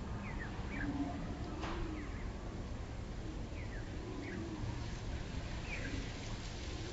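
Small birds chirping: short, quick, falling chirps about once a second, over a steady low rumble.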